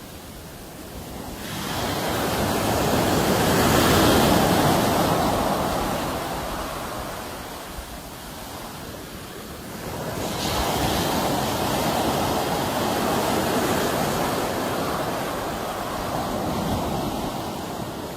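Sea waves washing onto a shore in two surges: the first builds about a second and a half in and peaks a few seconds later, the second rises about ten seconds in and lingers before ebbing.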